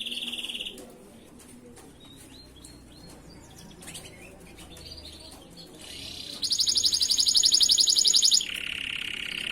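Domestic canary singing in rapid trills: a trill that breaks off early, softer scattered chirps, then a loud, very fast high-pitched roll of about two seconds, which drops straight into a lower trill.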